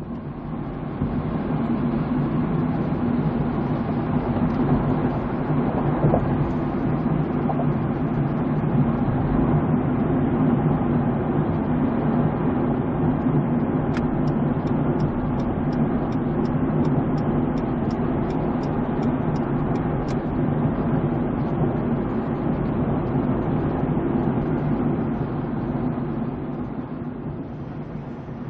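Steady engine and road noise of a moving vehicle. Partway through comes a run of evenly spaced clicks, about two a second, lasting several seconds.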